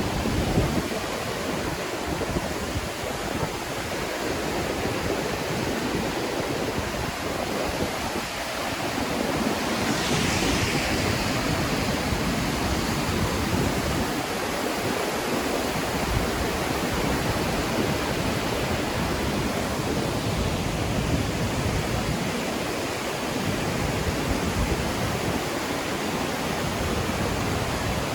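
Latefossen twin waterfall: heavy water falling and rushing in a steady, even wash of noise. About ten seconds in, a brief higher hiss swells and fades over it.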